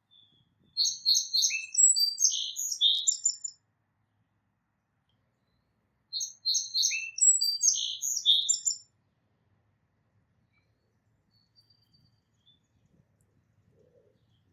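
A songbird singing the same song twice, a few seconds apart. Each song is a rapid run of varied high notes lasting about three seconds.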